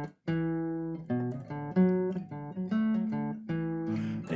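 Acoustic guitar played solo between sung lines: a run of single plucked notes and chords with a brief gap just after the start.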